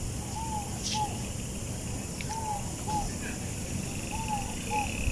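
A dove cooing a two-note call, a longer arched note followed by a short one, repeated three times about two seconds apart over a low background rumble.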